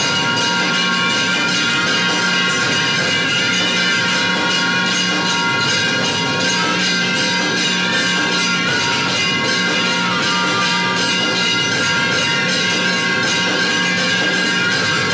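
Temple bells and percussion ringing continuously for aarti: rapid, steady striking with the bells' ringing tones held throughout.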